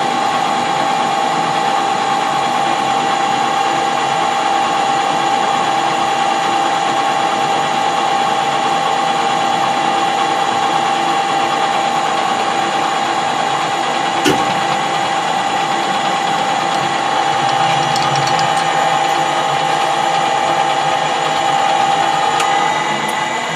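Metal lathe running steadily with a constant whine while turning a bolt from bar stock. A single sharp click comes about two-thirds of the way through, and the machine sound drops away near the end.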